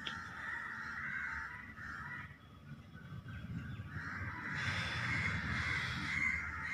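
Birds calling with short, harsh, repeated calls: a run for about two seconds, a brief lull, then a louder run from about four seconds in.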